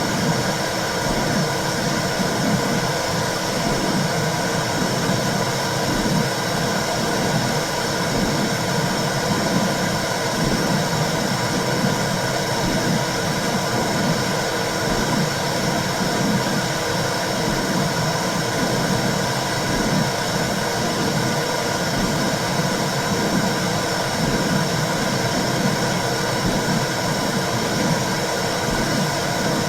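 Womb sound for soothing babies: a steady low whooshing noise over a constant hiss, with the low part swelling and fading in a loose, repeating pulse.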